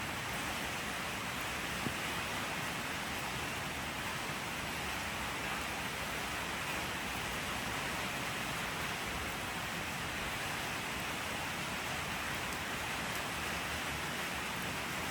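Steady rain falling, an even hiss of dense drops with no distinct patter or thunder.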